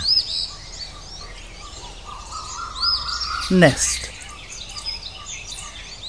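Small birds chirping and singing: short, high notes that rise and fall, repeating every second or so.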